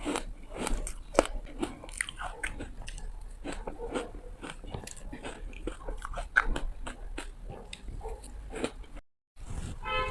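Teeth biting through ice and chewing it, a dense run of sharp crunching cracks at an irregular pace. The sound drops out briefly about nine seconds in.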